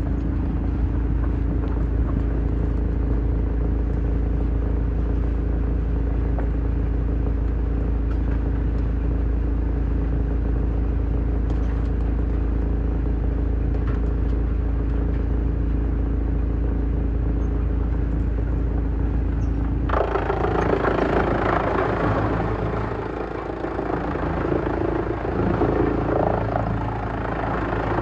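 Heavy-duty wood shredder running with a steady engine drone. About two-thirds of the way through, a sudden loud, rough noise sets in as the machine starts chewing through wood, rising and falling with the load.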